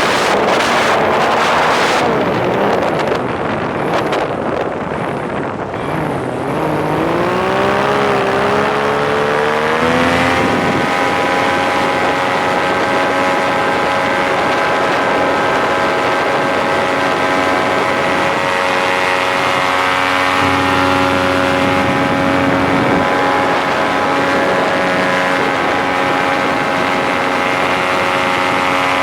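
Wind buffeting the microphone, then a paramotor's engine and propeller rising in pitch over a few seconds and settling into a steady drone.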